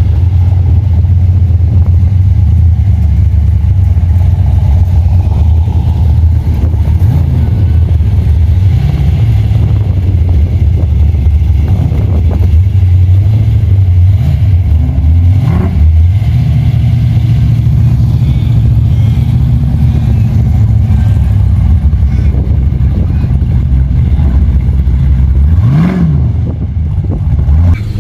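Modified street-machine car engine idling loudly close up, with several short throttle blips that rise and fall in pitch; the biggest comes near the end.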